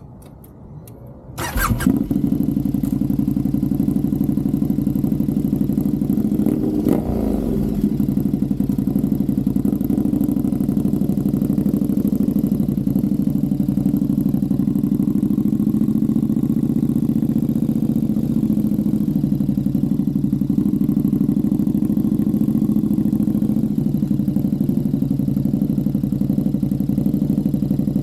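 KTM 1290 Super Duke R Evo's 1301 cc V-twin, fitted with a full titanium exhaust, starting up about a second and a half in with a sudden bark, then idling steadily.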